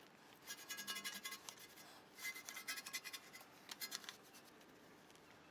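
Hand trigger sprayer squirting foaming wheel and tire cleaner in quick runs of short hissing pumps, three runs in all.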